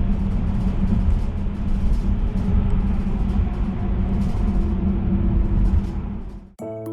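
Loud, steady low rumbling noise with faint music beneath it, fading out about six and a half seconds in; soft music with bell-like mallet notes starts right at the end.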